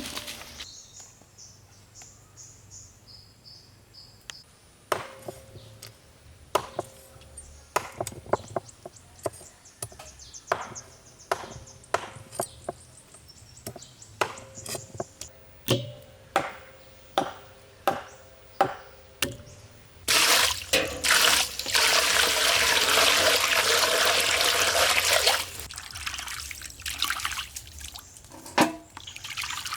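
A knife chopping on a cutting board: a steady series of sharp chops, about one or two a second. Then, about two-thirds of the way through, water is poured for about five seconds and stops.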